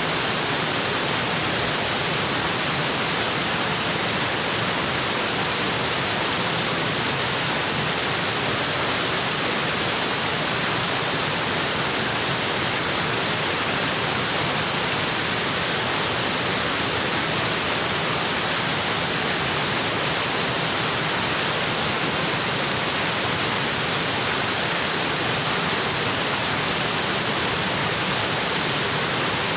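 Waterfall in a tropical forest, water pouring onto rocks in a steady, unbroken rush.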